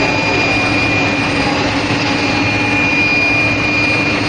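Steel plate induction hardening machine running: a loud, steady machine noise with a steady high whine over it.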